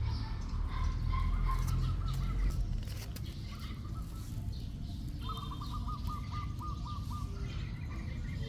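Series of quick, high chirping calls repeated several times a second, over a low rumble that eases off about halfway through.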